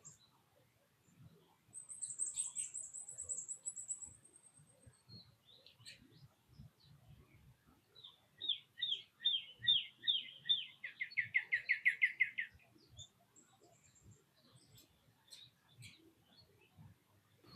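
Wild songbirds singing. A high, thin trill lasts about two seconds, then a string of down-slurred whistled notes begins and speeds up into a fast trill, followed by a few short chirps.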